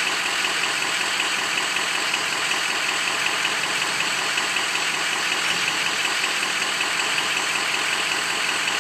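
Ford Power Stroke diesel V8 idling steadily in the pickup while a key-on-engine-running glow plug test runs.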